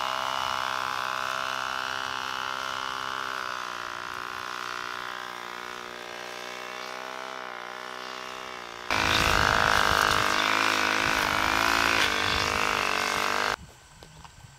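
A small motor running at a steady pitch. About nine seconds in it becomes louder and rougher, then cuts off abruptly about a second before the end.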